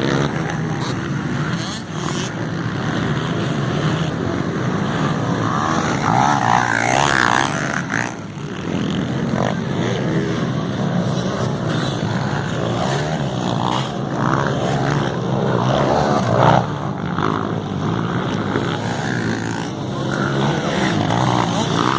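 Motocross dirt bikes racing on the track, their engines revving up and down as riders go through the course.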